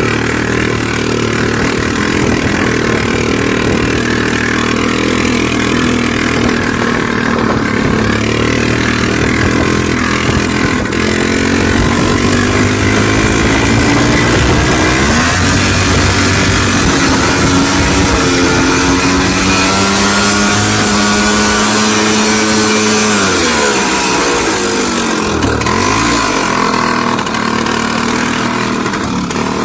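IZh Planeta 3 motorcycle's single-cylinder two-stroke engine running while riding. Its pitch climbs gradually over several seconds through the middle, then drops away sharply, dips once more briefly and picks up again near the end.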